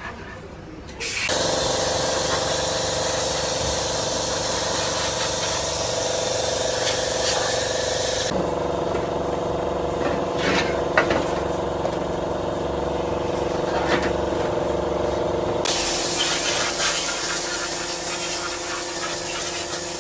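A steady pressurised spray hissing over a machine's steady hum; about a second in it starts, drops away from about eight seconds in, and comes back near sixteen seconds.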